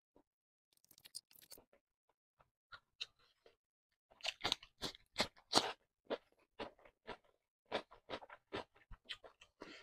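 Crisp crunching of a raw cucumber slice being bitten and chewed close to the microphone, starting about four seconds in. The first bites are the loudest, then steady chewing at about two to three crunches a second.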